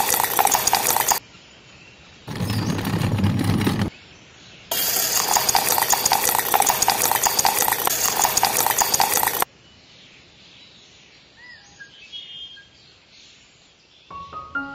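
Toy concrete mixer pouring wet concrete down its metal chute into a pit, a wet pouring and scraping sound in three stretches that stops a little over halfway through. Piano music begins near the end.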